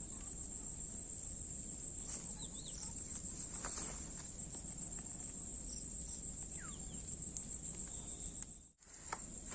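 Insects chirring in one steady, continuous high-pitched tone over a low outdoor rumble, with a few faint clicks and chirps. The sound cuts out briefly near the end.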